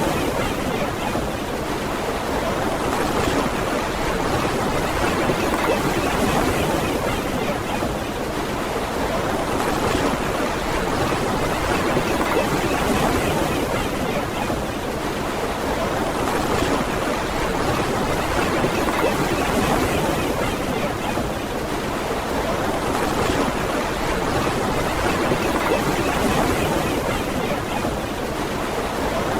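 Steady ocean surf washing on a beach, gently rising and falling every few seconds.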